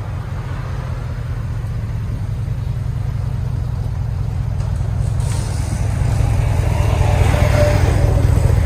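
Ram 1500's 5.7 L Hemi V8 through a true dual exhaust with Dynomax Race Bullet mufflers and the resonators left on, rumbling steadily at low revs and growing gradually louder.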